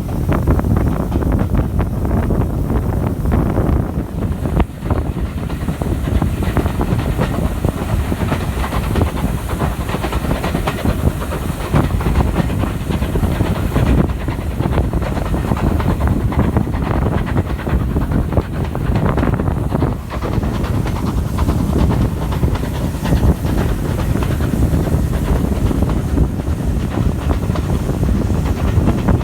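Steam train hauled by an Ivatt Class 2 locomotive running along the line: a steady, loud rumble with irregular clatter of wheels on rail.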